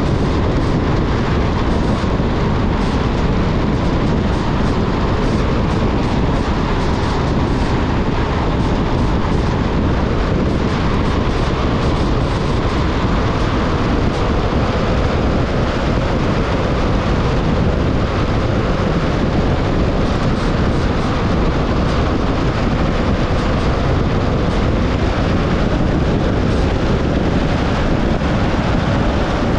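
Steady driving noise of a car travelling on a highway: tyres on pavement and wind rushing past, with a faint steady hum.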